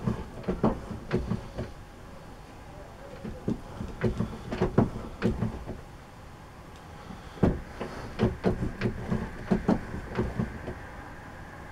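Sharp metallic knocks and clunks in irregular clusters of several, with short pauses between groups, from hand work on a small steel part at the workbench.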